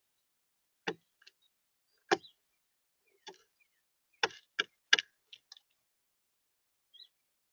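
Birds pecking and hopping on a bird feeder: a string of irregular sharp taps and clicks, several coming close together a little past the middle.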